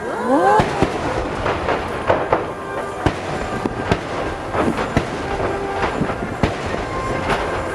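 Aerial fireworks bursting: a string of sharp bangs and crackles in quick succession, about a dozen in a few seconds.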